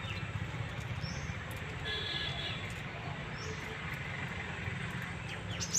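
A few short, high bird chirps over a steady low hum of outdoor background.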